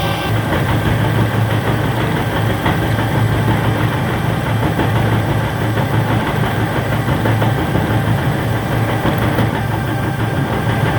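Doall horizontal metal-cutting bandsaw running, a loud steady machine hum with many steady tones above it. A higher hiss drops out just after the start.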